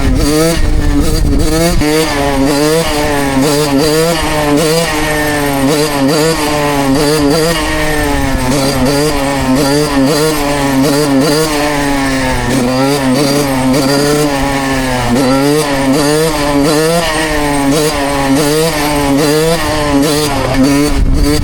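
Suzuki two-stroke dirt bike engine running under way, its pitch rising and falling with the throttle.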